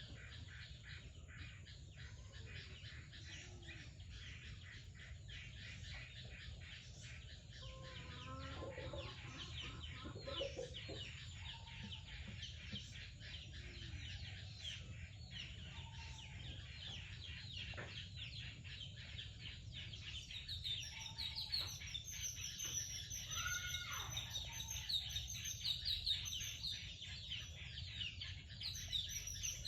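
Small birds chirping and twittering continuously, many short high calls overlapping, growing busier and louder about two-thirds of the way through. A few lower calls come in between about 8 and 11 seconds in, over a steady low hum.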